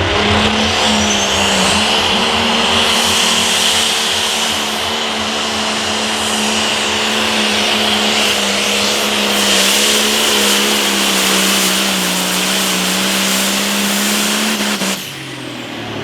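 Turbo-diesel engine of a 1066 International limited pro stock pulling tractor at full throttle under load during a pull: a steady, loud drone with a high whine above it. Near the end the throttle is cut and the engine winds down sharply.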